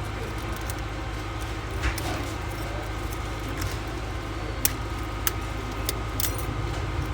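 Scattered light clicks and clinks of metal repair tools working loose glass off an iPhone's laser-treated back, with a few sharp ticks about two seconds in and again near the end, over a steady low hum.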